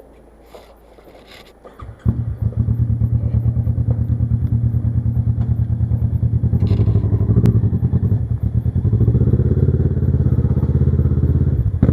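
Kawasaki Versys 650's parallel-twin engine catching about two seconds in, then running with a fast, even exhaust pulse, a little louder near the end.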